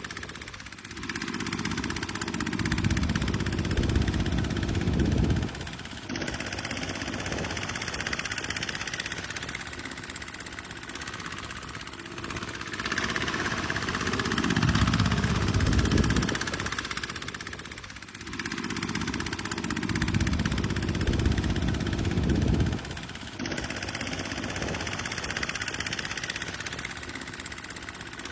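Tractor's diesel engine working under load, its low rumble swelling and easing in long surges every few seconds. The sound jumps abruptly twice.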